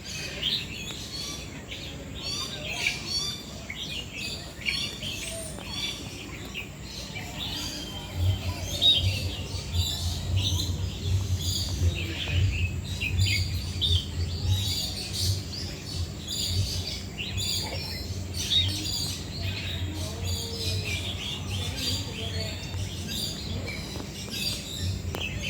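Birds chirping and calling in quick, overlapping notes. A low rumble joins from about eight seconds in.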